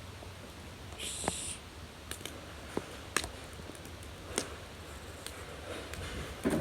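Wood fire crackling, with scattered sharp pops at irregular intervals and a brief high hiss about a second in.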